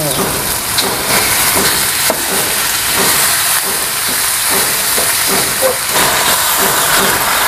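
Spice paste and raw chicken pieces sizzling in hot oil in a steel wok: a steady frying hiss as the chicken goes in and is stirred, stronger from about six seconds in.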